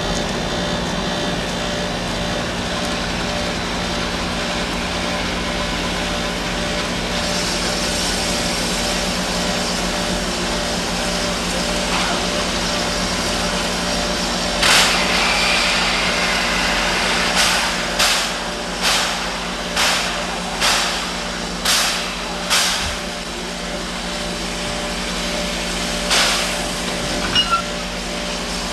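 Steady mechanical hum, then a sharp hiss about halfway through, followed by a series of about eight slow chuffs roughly a second apart, each fading out, and a few more near the end: a steam locomotive's exhaust as it works slowly.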